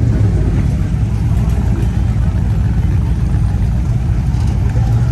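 Car engine running with a steady, low rumble as a vehicle moves slowly past.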